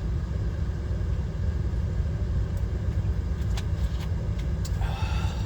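DAF XF 530 lorry's six-cylinder diesel engine running as a steady low rumble, heard inside the cab, with a few faint clicks.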